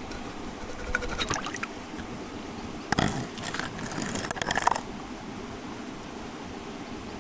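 Water running steadily from a freshly opened garden water line. It is broken by two spells of clicking and scraping handling noise, a short one about a second in and a longer, louder one from about three to nearly five seconds in.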